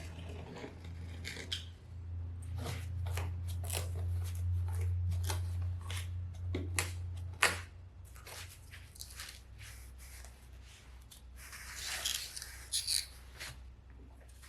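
A run of short clicks, snips and rubbing sounds from hand work, over a low steady hum that stops about halfway through; a sharper click comes just before the hum stops, and a longer rustle follows near the end.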